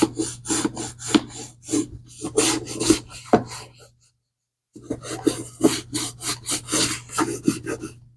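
Leather of a vintage Swiss Army bag being scrubbed in quick back-and-forth strokes, about three a second, in two runs with a short pause a little past halfway.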